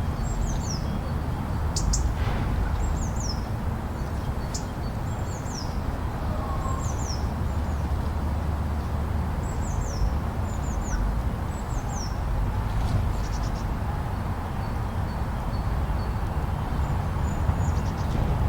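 Steady low wind noise of a snowstorm, with small birds chirping over it: short, high chirps sliding downward, in little runs every second or two.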